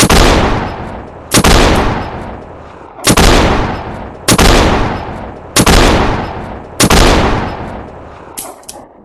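Colt Python revolver fired six times at an uneven pace of roughly one shot every 1.2 to 1.7 seconds, each shot ringing out in a long echoing tail. Near the end come two short clicks.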